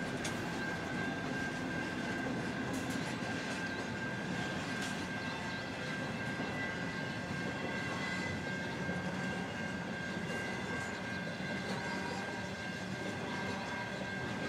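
Empty flat wagons of a freight train rolling past on the rails, a steady rumble of wheels and wagons.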